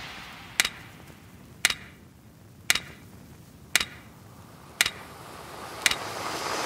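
Six sharp, evenly spaced ticks, about one a second, over a faint hiss.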